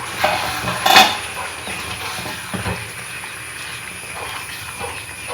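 Spoon stirring a thick curry in a metal cooking pot: a loud metal clank about a second in, then softer knocks and scrapes against the pot.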